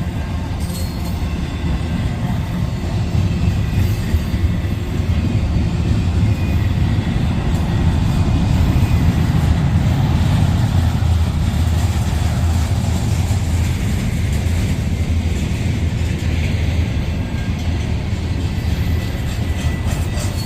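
A train rolling past, its rail cars making a steady, loud rumble on the track.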